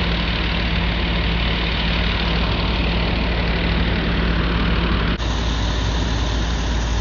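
Vehicle engine idling steadily with a low hum, with a brief dropout about five seconds in.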